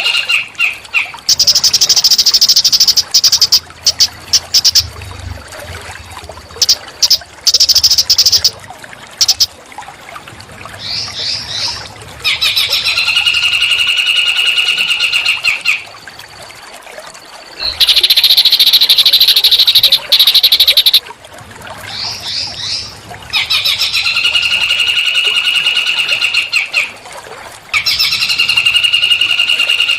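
Small songbird song, loud and repeated: long, even, buzzing trills of two to four seconds alternate with higher, harsher rattling trills, separated by brief pauses.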